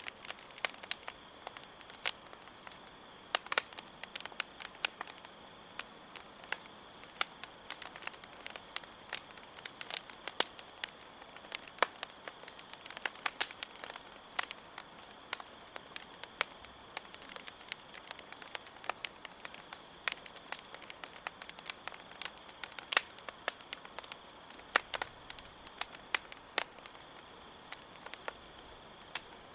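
Wood campfire crackling with irregular sharp pops and snaps, over a steady high trill of crickets chirping.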